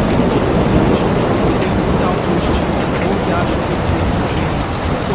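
Steady rain falling: an even, unbroken hiss with a constant low rumble underneath.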